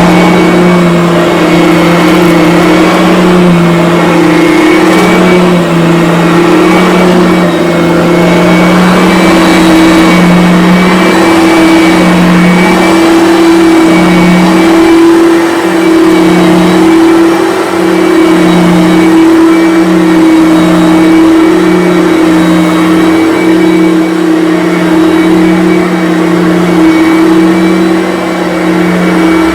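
Bissell BigGreen Commercial upright vacuum cleaner running, its motor giving a steady hum with a thin high whine above it as it is worked over carpet. The hum wavers unevenly in the second half.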